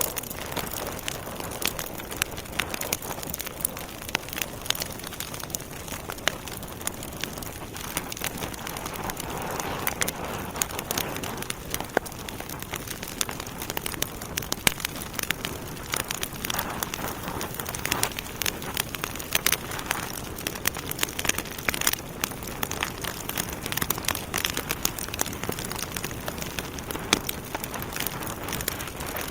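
Logs burning in a fireplace: a steady rush of flame with frequent sharp crackles and pops, some much louder than the rest, scattered irregularly throughout.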